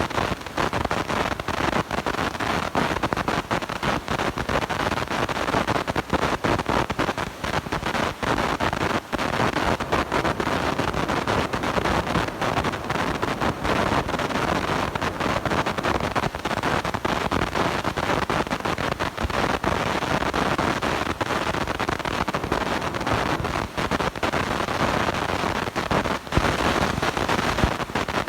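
Blown-out, faulty microphone producing a steady loud crackling, rushing distortion noise, like heavy wind on the mic.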